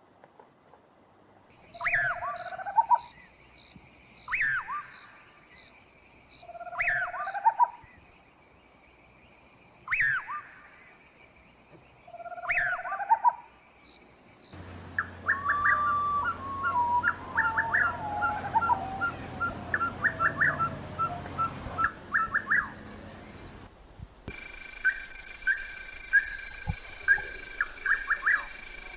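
Birds singing: first one bird repeats a short phrase of falling whistles about every two and a half seconds over a faint steady pulsing, then come trilled and whistled calls, and near the end quick chips over a steady high insect-like drone. The background changes abruptly twice.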